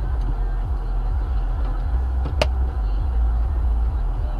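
A car driving, with a steady low rumble of road and engine noise. One sharp click sounds about halfway through.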